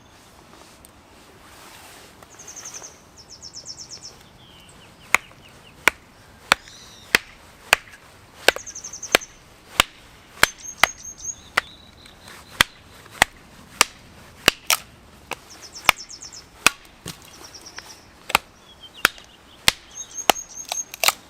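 Wood being chopped with steady, regular strokes, about one every half to two-thirds of a second, starting about five seconds in, as in splitting firewood for a campfire. Birds chirp in short high trills in the background.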